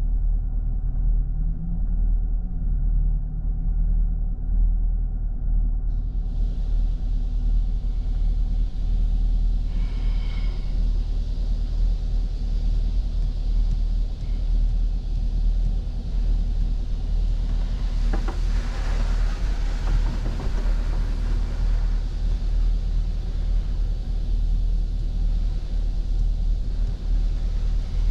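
Automatic car wash heard from inside the car's cabin: a steady low rumble throughout, with a hiss of water spray on the body coming in about six seconds in and swelling to its loudest about two-thirds of the way through.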